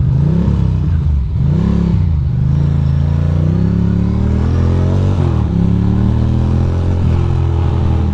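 Ducati Monster's V-twin engine revved up and down twice, then pulling away with pitch rising for a few seconds, dropping sharply about five seconds in as it shifts up, then running steady.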